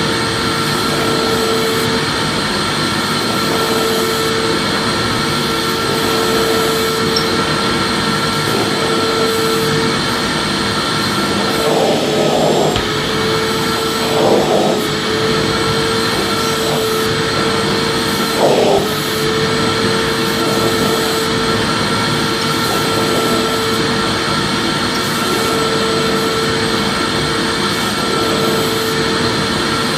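Vacuum cleaner running steadily, a continuous motor whine over rushing air. Three times near the middle the pitch dips briefly and the sound swells, as when the nozzle's airflow changes.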